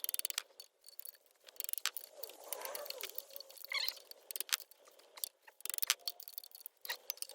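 Scattered sharp clicks and clinks of hand tools and metal parts being handled, with a quick run of rapid clicks at the start.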